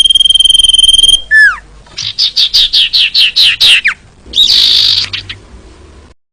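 Female common iora calling, the call used to lure males: a long steady whistle, a short falling note, then a rapid run of about a dozen quick down-slurred notes and one harsh rasping note. The sound cuts off abruptly to silence near the end.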